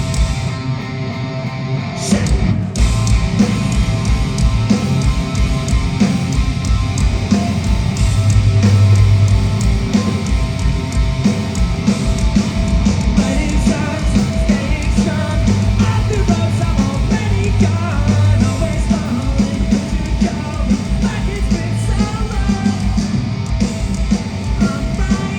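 Punk rock band playing live, recorded from the crowd: distorted electric guitars, bass and a fast drum beat. Sung vocals come in over the band from about halfway through.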